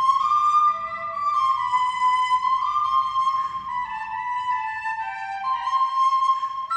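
Instrumental music: a melody on a flute-like instrument, notes following one another about every half second.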